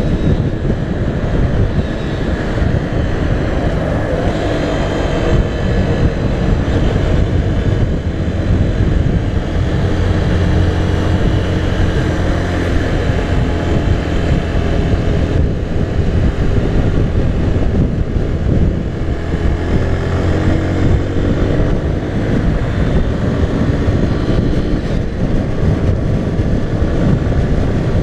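Sym Wolf 125 cc motorcycle engine running at road speed under wind noise, heard from the rider's position. The engine note rises and falls a few times with the throttle.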